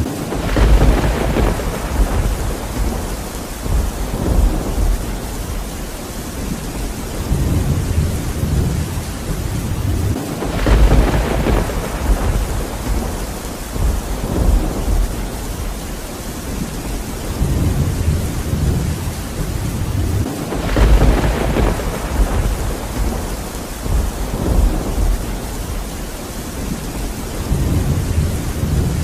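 Steady rain with thunder: three rolls of thunder about ten seconds apart, each swelling up and rumbling away over a few seconds.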